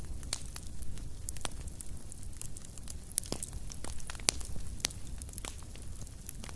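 Wood fire in a fireplace crackling: irregular sharp pops and snaps over a steady low rumble of flames, with a couple of louder pops past the middle.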